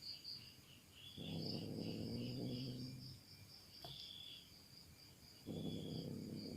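Crickets and other insects chirping steadily in pulsed trills. A low, drawn-out sound comes in twice over it, first for about two seconds, then for about one second near the end.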